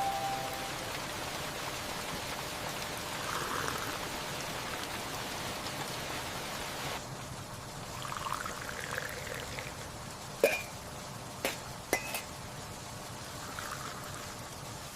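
Steady rain with water running and trickling, and a few sharp taps or drips about two-thirds of the way through.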